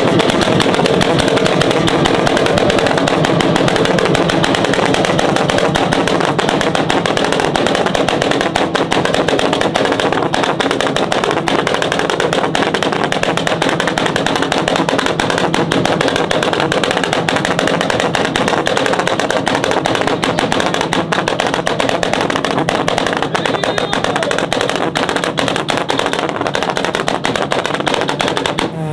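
Modified car's exhaust firing a rapid, continuous string of sharp bangs and pops, like machine-gun fire, from a 2-step launch limiter or anti-lag system.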